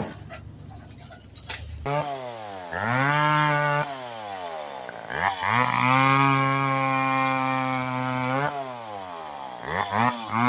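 Two-stroke chainsaw being throttled: after a quieter low rumble, it comes in loud about two seconds in, its pitch dropping and climbing quickly several times, and it is held at high revs for a few seconds in the middle.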